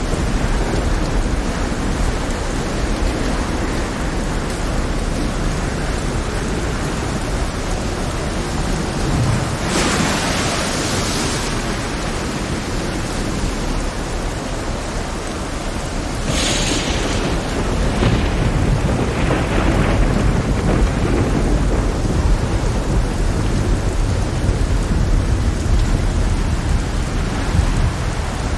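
Heavy rain in a thunderstorm over a rough sea, under a continuous deep thunder rumble. Sharp hissing surges break through about ten seconds in, and again around sixteen and nineteen seconds.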